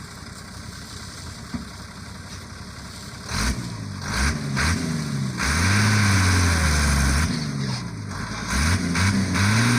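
Sugarcane truck engine running low, then revved hard again and again from about three seconds in, its pitch sweeping up and down, with two longer high-rev stretches.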